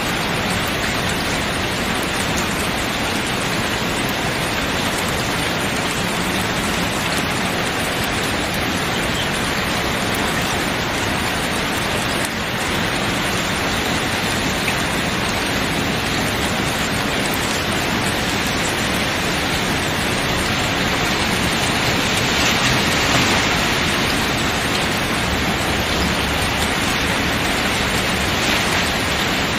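Steady, dense rain falling on tent canvas, swelling slightly about two-thirds of the way through.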